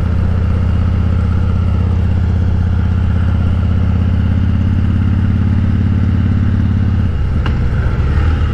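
Harley-Davidson Breakout's V-twin engine running steadily while the motorcycle rides through curves. Near the end the engine note dips and breaks up for about a second, with a single short click, before it steadies again.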